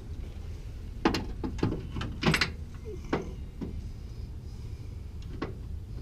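A string of sharp knocks and clatters, the loudest about two seconds in, with a last one near the end, over a steady low hum: tools and parts being handled during work on the truck's front suspension.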